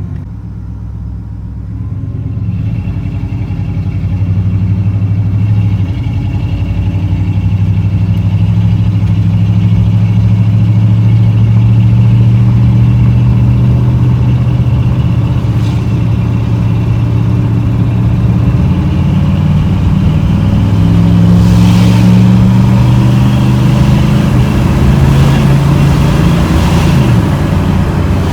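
Chevrolet Z71 pickup's engine and Flowmaster exhaust under acceleration, the drone climbing steadily in pitch for about ten seconds, then holding steady at speed, with a brief dip in pitch near the end.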